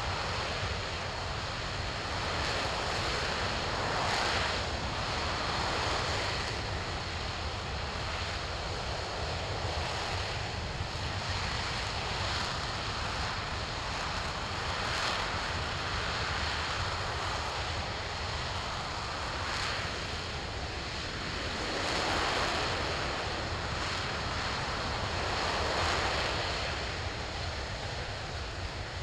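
RS-25 liquid-hydrogen/liquid-oxygen rocket engine firing on a test stand: a continuous rushing roar that swells and eases every few seconds.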